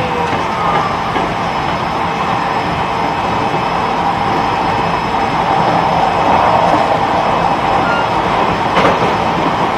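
E129 series electric train running along the line, heard from inside the car: a steady rolling rumble of wheels on rail, with a sharp knock about nine seconds in.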